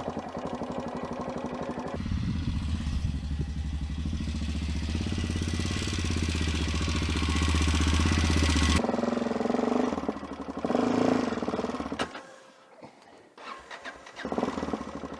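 Adventure motorcycle engine running at low speed on a rough track, with a steady low hum. The sound changes abruptly about nine seconds in and drops away for a couple of seconds before picking up again near the end.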